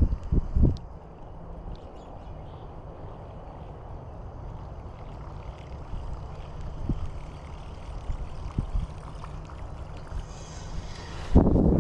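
Wind buffeting the microphone: a steady low rumble, with a few heavier gusts in the first second and a loud gust near the end.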